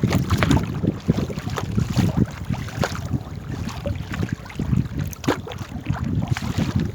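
Small rowed boat on the water: irregular splashing and knocking of paddle and water against the hull, over low wind rumble on the microphone.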